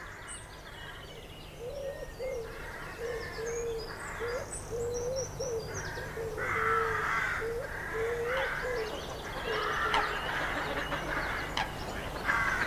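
Birds singing outdoors: a low cooing call repeated over and over through most of the stretch, with higher chirps from small birds mixed in.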